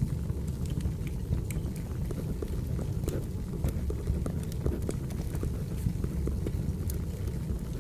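Wood fire burning, with scattered crackles and pops over a steady low rumble. Pencil strokes on paper are mixed in.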